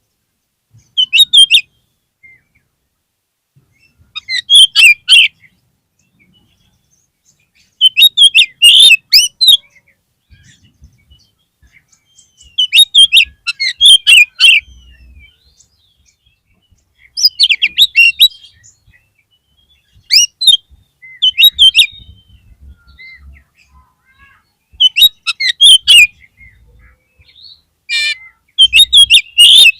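Oriental magpie-robin (kacer) singing in short, loud bursts of varied, rapid notes, one phrase every three to four seconds with pauses between. It is a lure recording meant to provoke a kept kacer into answering.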